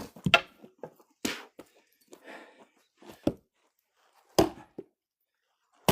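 Firewood being split by hand: about five heavy, sharp blows on a log, irregularly spaced, the loudest about four and a half seconds in and near the end.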